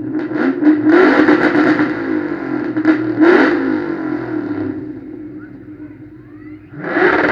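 Ford Mustang engine revved hard through its exhaust: a sudden jump to high revs with quick blips about one and three seconds in, easing back after about five seconds, then revved hard again near the end.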